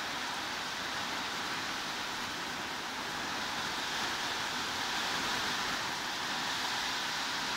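Steady heavy rain: an even, dense hiss with no separate drops or other sounds standing out.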